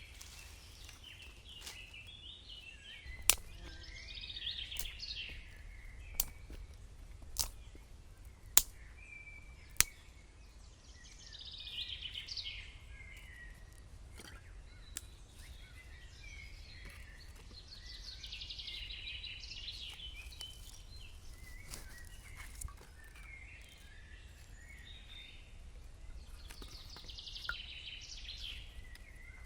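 Birds singing in short phrases every few seconds over a faint low rumble, with six sharp cracks in the first ten seconds, louder than the birdsong.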